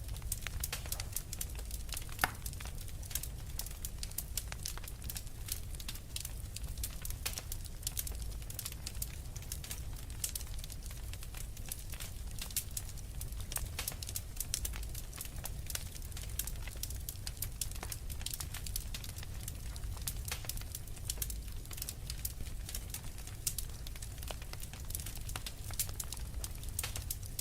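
Wood fire burning in a fireplace: steady low rumble of the flames with frequent irregular crackles and pops from the burning logs, one louder snap about two seconds in.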